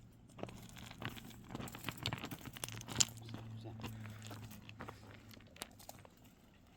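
Irregular crackling and rustling of something being handled, loudest in the middle, over a faint low steady hum.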